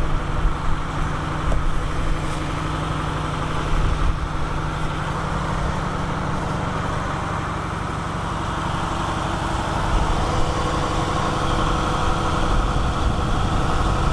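2007 Ford Mustang GT's 4.6-litre V8 idling steadily through its Corsa exhaust. It is on a raised cold-start idle just after being jump-started from a dead battery.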